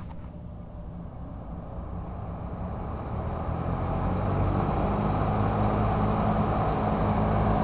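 1973 McGraw-Edison Eskimo 20-inch three-speed box fan running on its high setting: a steady rush of air over a low motor hum. It grows louder over the first four seconds, then holds steady.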